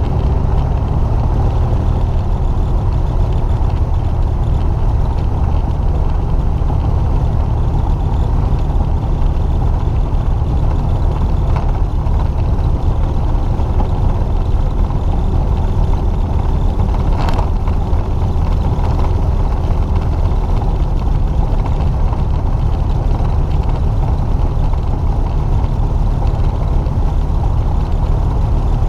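Light aircraft's piston engine and propeller running steadily, a loud drone heard from on board during the landing. A brief faint click about seventeen seconds in.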